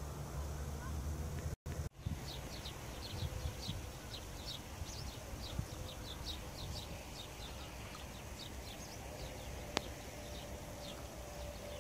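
Small birds chirping: a quick, irregular run of short high notes, several a second. Before it there is a low rumble for the first second and a half, then a brief break in the sound just before the chirping starts.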